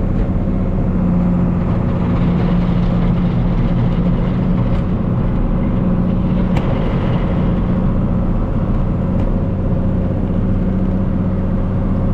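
Engine running steadily at a constant speed, with a deep even hum and a few faint clicks.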